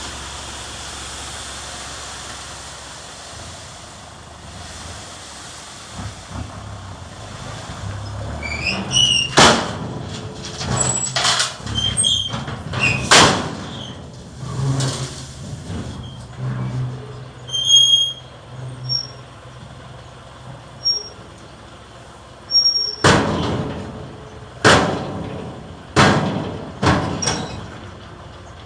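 Ten-wheel dump truck at work: a hiss of air at the start, the engine running low, then a string of sharp metallic clanks with short high squeaks, in two clusters.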